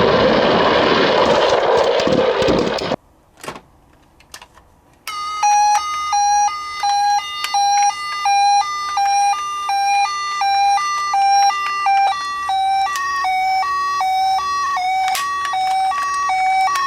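Loud rushing noise for about three seconds, a short near-quiet gap with a couple of clicks, then a two-tone hi-lo emergency siren, the Japanese ambulance 'pee-po' pattern, alternating steadily between two pitches from about five seconds in.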